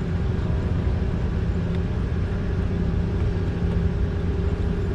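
Steady low mechanical hum, even in level throughout, like a running engine or machine, with no distinct knocks or clicks.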